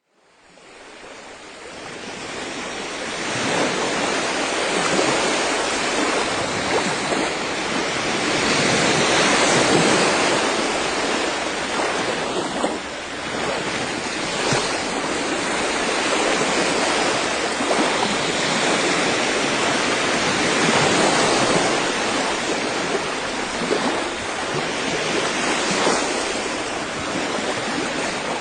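Rushing sea water and surf, a steady wash that swells and eases every few seconds, fading in over the first few seconds.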